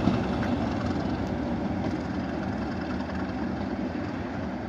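A large vehicle's engine running with a steady rumble, easing off slightly.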